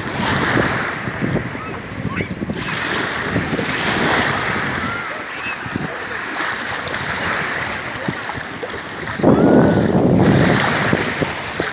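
Sea waves washing onto the shore, with wind buffeting the microphone; a louder rush of water and wind comes about nine seconds in.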